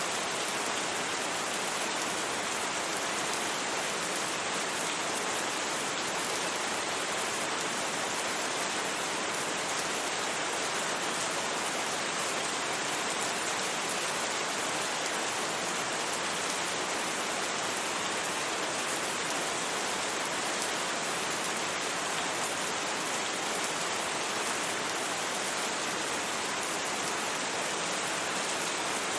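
Steady rain falling, an even unbroken hiss of rain on surfaces without thunder.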